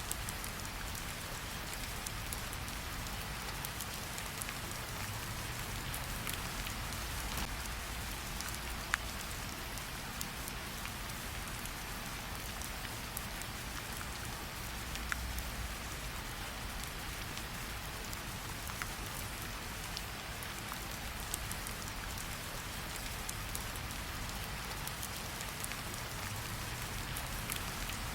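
Steady rain falling, with a campfire crackling: a few sharp pops stand out from the rain, the loudest about nine seconds in.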